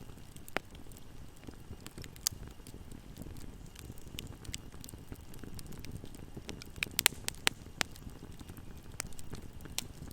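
Wood fire burning in a fireplace: a low steady rumble of flames with scattered crackles and pops, a quick cluster of louder snaps about seven seconds in.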